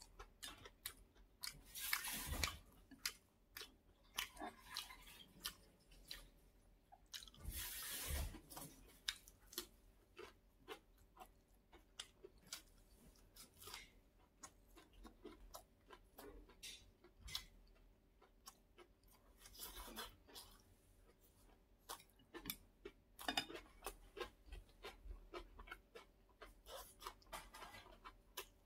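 Close-miked chewing of a fried potato patty: many small mouth clicks, with a few louder bites spread through.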